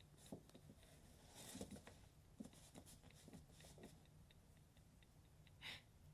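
Faint, scattered scratches and soft taps of a cat pawing at a cardboard 12-pack box, with a brief rustle about a second and a half in and another near the end.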